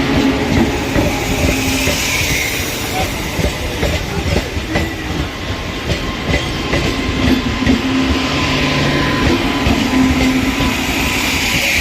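Indian Railways local train running along the track: a steady rumble with repeated wheel clicks over the rail joints.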